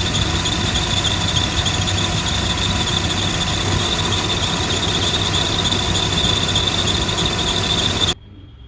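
Car engine running with a loud, steady high-pitched squeal from the serpentine belt's idler pulley, the sign of a worn idler pulley bearing. The squeal cuts off suddenly near the end.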